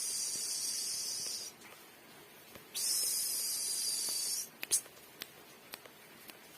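Two long hissing spray bursts, each lasting about a second and a half, start and stop abruptly. A run of small sharp clicks and ticks follows near the end.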